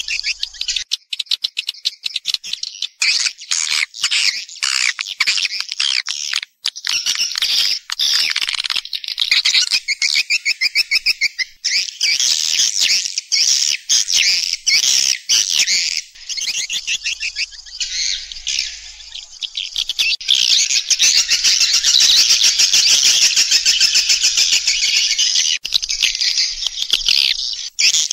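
A flock of swiftlets twittering in a dense chorus of rapid, buzzy chirps and trills with only brief breaks. This is the recorded call-and-roost sound played in swiftlet houses to lure the birds in to nest.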